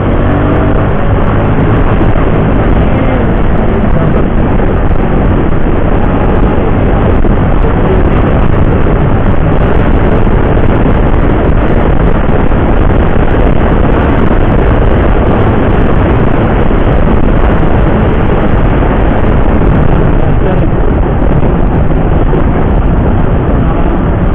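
Steady, loud wind and road noise of a motorcycle ridden at speed, the wind rushing over the rider's microphone and covering the engine.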